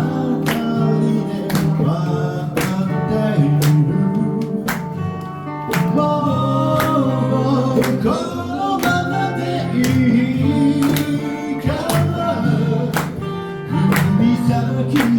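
Live band music with guitars, a melody line over the chords and a steady beat of sharp hits about once a second.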